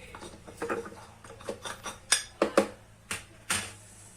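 Kitchen utensils and dishes clinking and knocking, a scattered run of sharp knocks, the loudest a few between two and three and a half seconds in, as herbs and spices for a chermoula marinade are put together.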